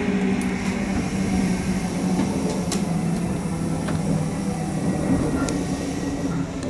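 JR West 201 series electric train heard from inside the front car as it pulls slowly out of a station: a steady motor hum, with a few sharp clicks from the wheels and track.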